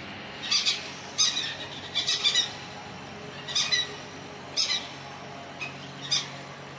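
Pet parrots giving short, sharp squawks, about a dozen calls, some in quick pairs or clusters, spread roughly a second apart.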